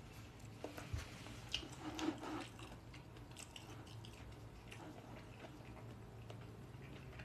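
Faint chewing of a mouthful of cauliflower with egg, ham and cheese, with scattered small mouth clicks and a steady low hum underneath.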